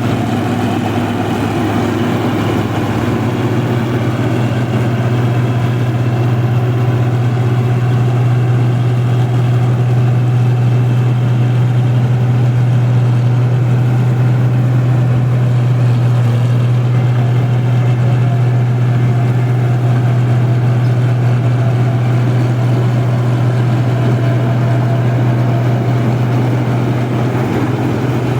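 Rice combine harvester's engine running at a steady speed, an even, unbroken low drone.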